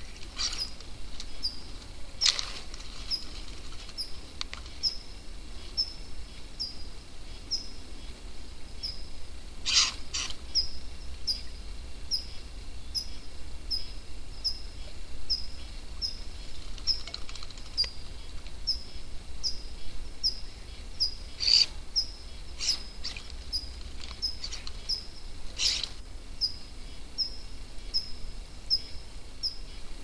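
A bird repeating a short high chirp about twice a second, without a break. Now and then there are brief splashes and wing-flutters as birds bathe in a shallow pan of water, a few near the start, about ten seconds in, and several more between about 21 and 26 seconds.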